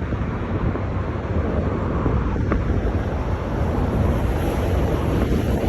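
Boeing 737 MAX 9 jet engines, a steady roar mixed with wind noise, growing a little louder toward the end.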